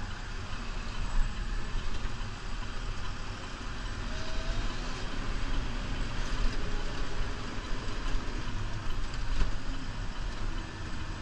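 Diesel engine of a New Holland Powerstar 75 tractor running steadily while it plows snow with a 9 ft front plow, with a steady low rumble under a broad rushing noise.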